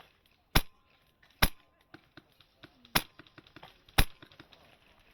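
Wolverine MTW HPA M4 airsoft rifle firing four single shots at irregular intervals, each a sharp crack, with faint ticks between them.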